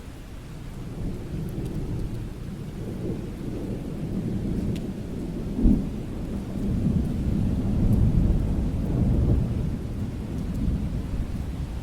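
Thunder rolling over steady rain: a low rumble builds, a sharp crack comes about halfway through, then a long rolling rumble that fades near the end.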